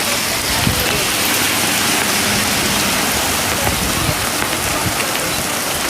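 Heavy rain pouring down, a steady dense hiss of drops hitting the ground.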